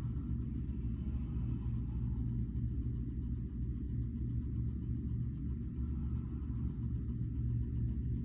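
A steady low hum or drone that continues unchanged, with nothing else standing out over it.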